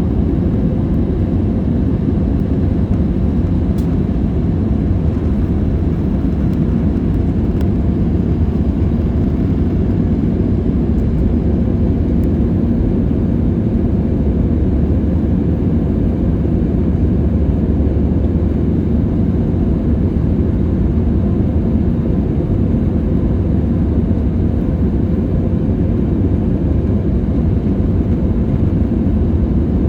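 Airliner cabin noise: a steady low drone of the jet engines and the rushing air, unchanging throughout, with a faint steady hum inside it.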